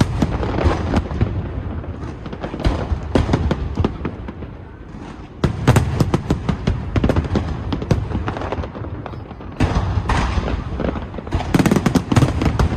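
Aerial fireworks exploding in rapid volleys: a dense run of cracks and deep booms that eases off about four seconds in, then comes back heavy at about five and a half seconds and again near the end.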